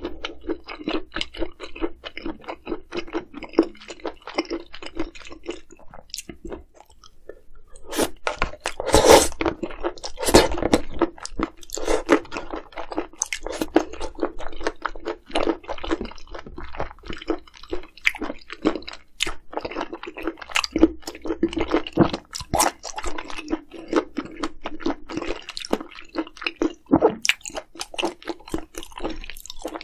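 Close-miked eating: a person chewing and crunching food in quick, irregular bites, with a short lull about a fifth of the way in and the loudest bites just after.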